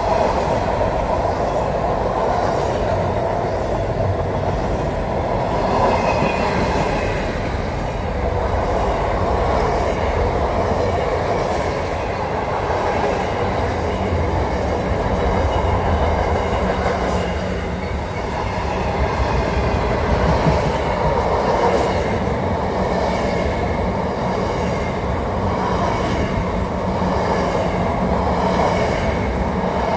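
Freight train wagons passing close by at speed: a steady noise of steel wheels running on the rails.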